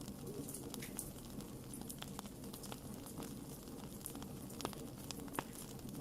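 Wood campfire crackling with many small scattered pops, two louder pops near the end.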